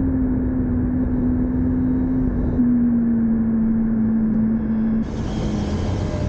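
Motorcycle engine running steadily with wind and road noise; its note falls slowly, breaks briefly about two and a half seconds in, and the sound drops in loudness near the end.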